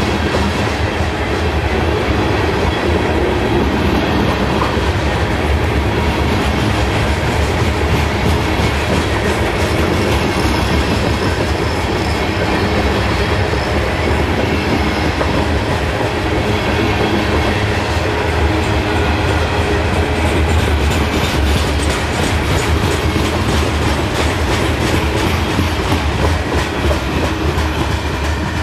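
Freight train rolling steadily past at speed, its wheels clicking over the rail joints over a low rumble.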